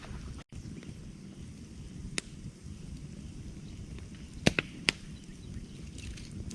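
Wood campfire burning: a steady low rush of flames with a few sharp crackles and pops, the loudest a quick run of three snaps about two-thirds of the way through. The sound cuts out completely for an instant about half a second in.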